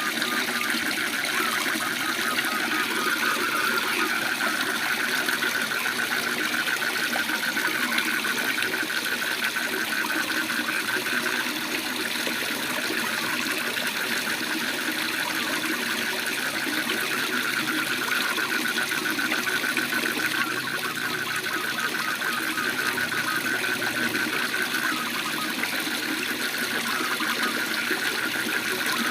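Waterfall rushing steadily, with frogs calling over it in a continuous fast-pulsing trill.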